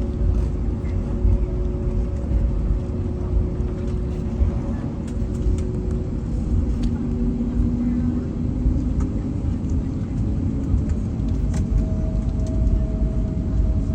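Airbus A321neo's CFM LEAP-1A engines running at low power over a heavy low rumble, heard on board while taxiing. Their steady hum shifts slightly in pitch a couple of times.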